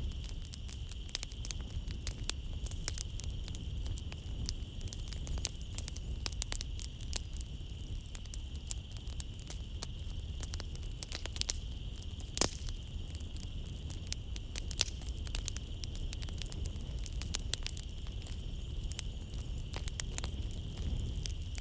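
Wood fire in a fireplace burning steadily, with a low rumble and dense irregular crackles and pops, one sharper and louder crack about halfway through. A steady high-pitched chorus of night insects runs behind it.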